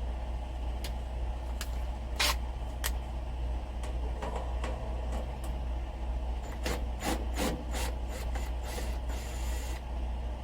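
Scattered clicks, knocks and rubbing of hands working a wooden shelf and its fittings, busiest about two-thirds of the way through, over a steady low hum.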